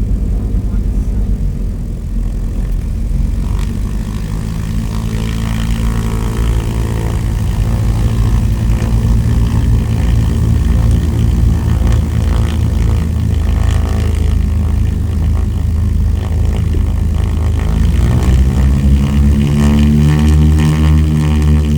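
Aircraft engine running with a steady low drone, rising in pitch a few seconds before the end.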